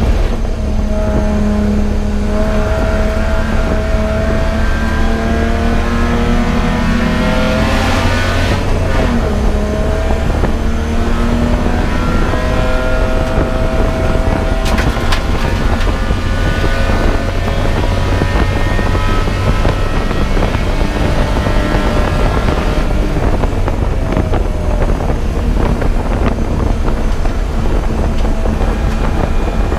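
Race car engine pulling hard through the gears, its pitch climbing for several seconds, dropping back at each shift or lift and climbing again, over a heavy steady rumble.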